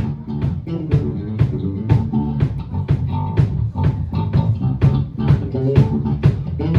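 Live rock band playing an instrumental passage: guitar and bass over drums keeping a steady beat of about four strokes a second.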